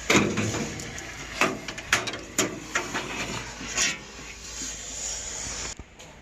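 Irregular knocks and clanks of sheet metal being handled and pried at while a chiller cabinet's galvanized panels are taken apart, with several sharp strikes in the first four seconds.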